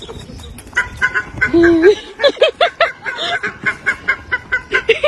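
An animal calling: one drawn-out call rising in pitch about a second and a half in, then a rapid run of short, repeated calls, about four a second.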